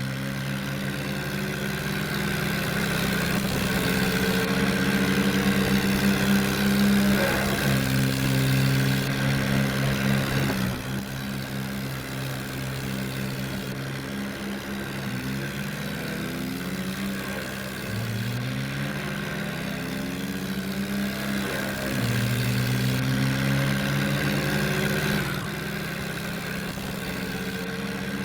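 Tractor engine running and revving, its pitch climbing several times, with abrupt changes in sound every few seconds.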